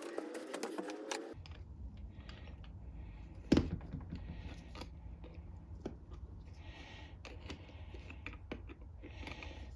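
Small clicks, taps and scrapes of a hand tool working at a Tecumseh mower-engine carburetor part that will not come loose, with one louder knock about three and a half seconds in. A low hum comes in about a second in.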